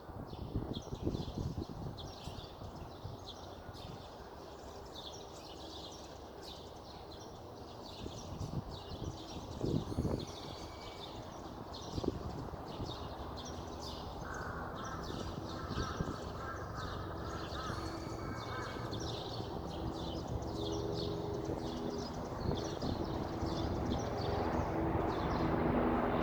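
Small songbirds chirping and twittering in quick, short, high calls throughout, over a low background rumble. Near the end an engine hum of a passing vehicle or aircraft grows steadily louder.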